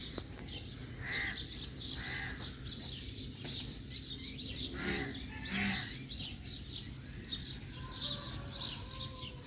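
Small birds chirping repeatedly and quickly, with a few louder, lower calls spread through it.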